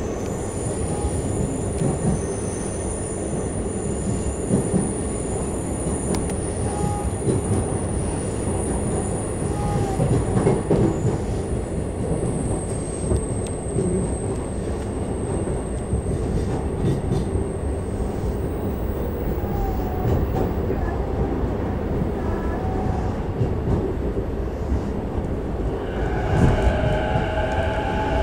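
Inside the cabin of a JR E233-5000 series electric commuter train running between stations: a steady rumble of wheels on rail. About two seconds before the end, a higher whine of several wavering tones comes in.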